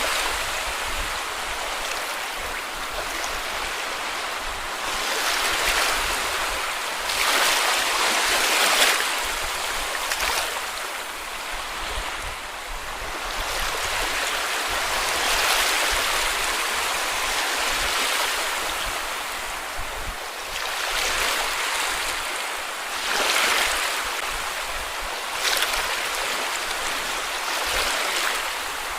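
Small sea waves breaking and washing up on a beach, each one swelling up and falling back every few seconds over a continuous hiss of surf.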